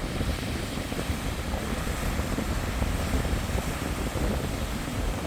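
Strong wind buffeting the microphone in a steady low rumble, with heavy surf running in behind it.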